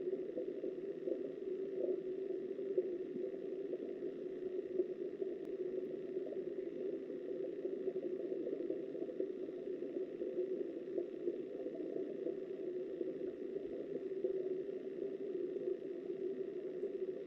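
Steady, muffled rush of flowing river water heard underwater.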